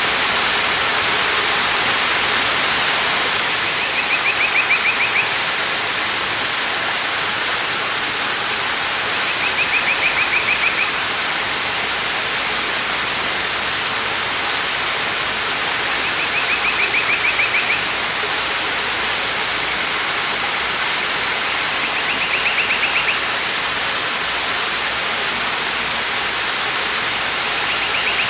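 Waterfall rushing steadily. A short, rapidly pulsing high trill repeats about every six seconds over it, four times and again at the very end.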